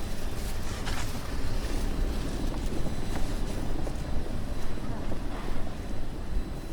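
Wind buffeting the microphone: a steady, gusty low rumble over outdoor ambience.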